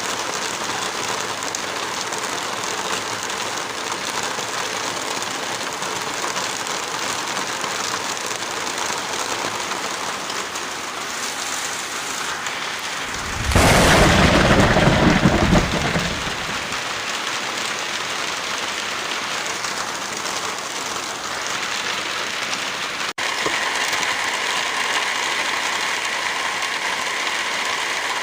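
Heavy rain falling steadily. About halfway through, a loud low rumble lasts about three seconds, and near the end the rain cuts out for an instant and comes back with a slightly different, brighter texture.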